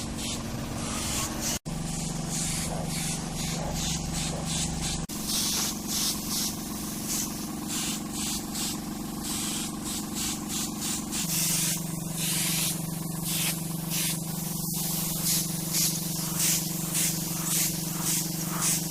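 A compressed-air spray gun hissing in quick, repeated bursts while epoxy primer is sprayed onto car body panels. Under it runs the steady hum of a motor, likely the air compressor.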